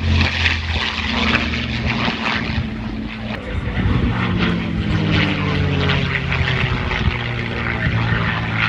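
Propeller aircraft's piston engine droning loudly as it flies past, its pitch sliding slowly down as it goes by.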